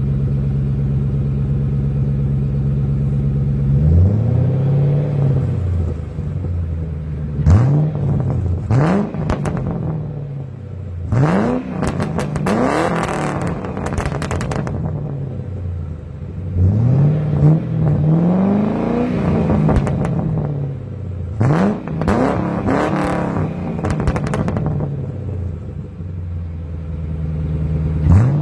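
2003 Ford Crown Victoria's 4.6-litre V8 heard through its exhaust: idling steadily at first, then revved again and again, in quick blips and a few longer revs, dropping back to idle between them. Loud; it settles to idle near the end, with one last blip.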